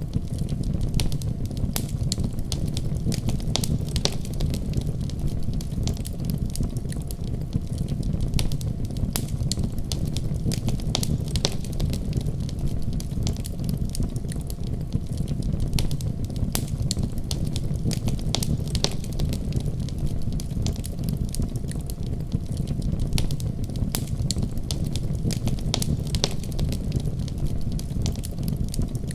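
Wood fire burning steadily, with a low roar of flames and frequent sharp, irregular crackles and pops.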